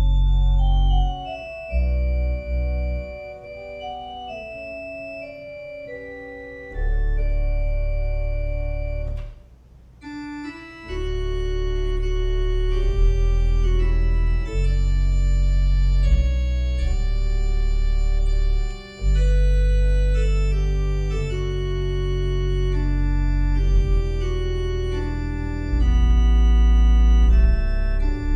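Organ playing held chords over deep bass pedal notes, pausing briefly about nine seconds in before resuming with fuller chords.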